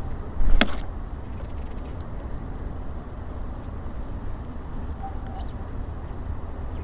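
Outdoor ambience at a bird feeder: a steady low rumble, with one sharp knock about half a second in and a few faint ticks.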